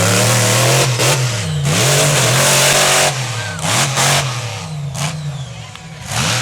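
Monster truck engine revving hard in repeated bursts, loud, its pitch rising and falling with the throttle and dipping briefly about a second in and again around three and four seconds in.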